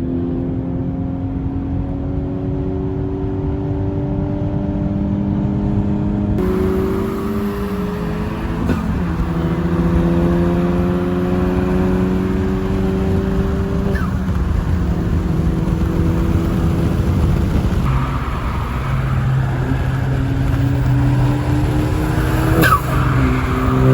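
Car engine pulling under acceleration, its pitch climbing slowly and dropping back a few times as at gear changes, with a sharp click near the end.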